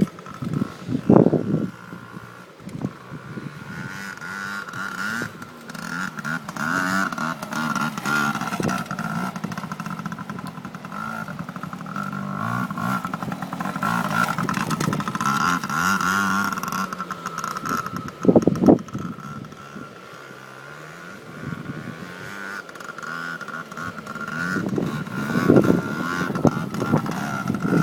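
Small two-stroke dirt bike engine running and revving up and down as it is ridden, with a few loud knocks along the way.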